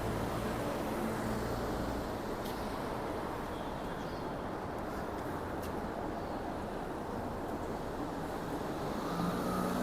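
Steady city traffic noise, an even wash of passing vehicles with no single one standing out.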